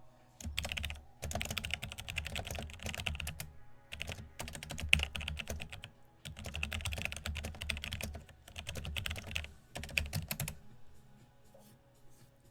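Typing on a computer keyboard: rapid key clicks in five bursts, with short pauses between them.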